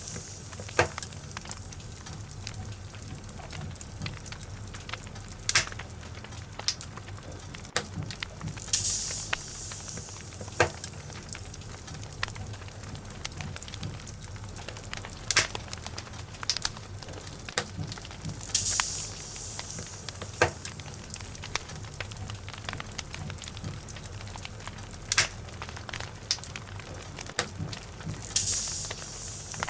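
Burning logs in a fireplace crackling, with irregular sharp pops and snaps over a steady low rumble. A brief hissing surge comes back about every ten seconds.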